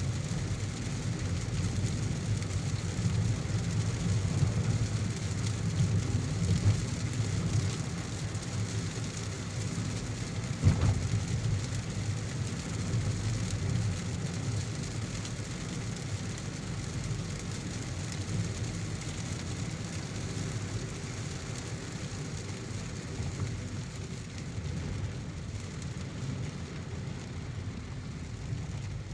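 Car driving in heavy rain: a steady low rumble of the car on the road under an even hiss of rain. A single sharp knock about ten seconds in.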